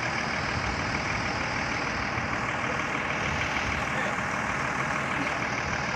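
Excavator's diesel engine running steadily, a continuous rushing noise that sounds like an aeroplane.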